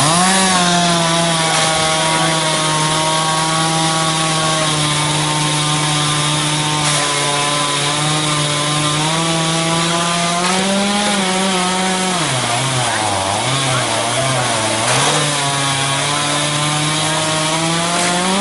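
A chainsaw engine revved up to high speed. It runs steadily, then its pitch sags and wavers for a few seconds about two-thirds of the way through as it bogs down under load while cutting wood, and rises again. Near the end it drops back toward idle.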